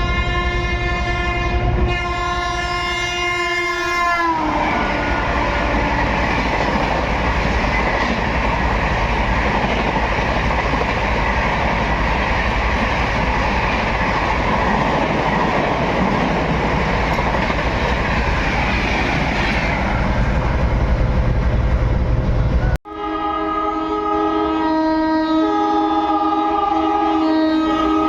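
Indian Railways locomotive horn blaring, falling in pitch as the train passes, then the loud rushing clatter of its coaches going by for nearly twenty seconds. After an abrupt cut, another train's horn sounds and falls in pitch near the end.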